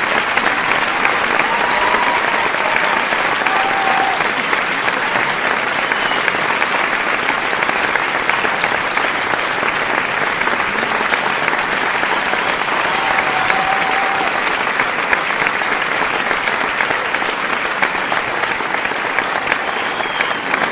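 Large crowd applauding: dense, steady clapping with no let-up, and a few brief faint calls heard through it.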